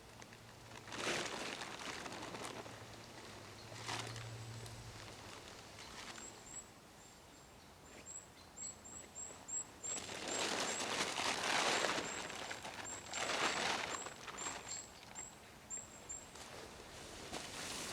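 A small bird calling: a long run of short, very high, thin chirps repeated many times, with several bouts of rustling.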